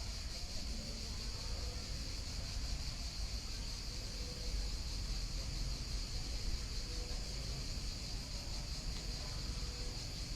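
Steady nature ambience: a continuous high-pitched insect chorus over a low rumble of a calm river flowing.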